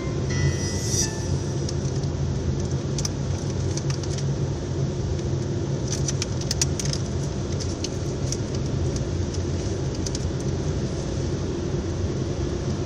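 Steady low rumble of a car heard from inside the cabin, with a few light clicks and jingles about six to seven seconds in.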